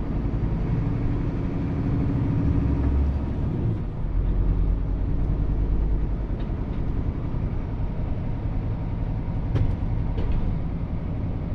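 Scania truck's diesel engine running under a steady drone, heard from inside the cab; the drone is stronger for the first four seconds or so, then settles, with two short ticks near the end.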